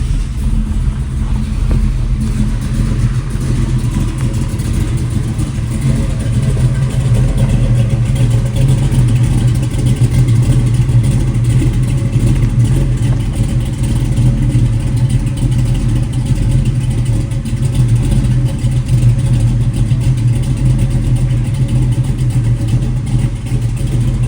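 A 1965 Ford Mustang's 363 V8 running steadily, loud, just after a cold start, the engine cold from sitting overnight.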